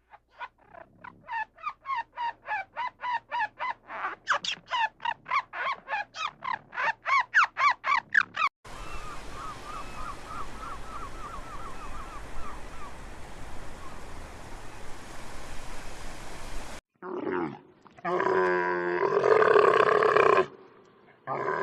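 A run of animal calls. First comes a fast series of high, squeaky calls, about three a second, each falling in pitch. Then a steady hiss with faint chirps. Near the end come loud, deep calls.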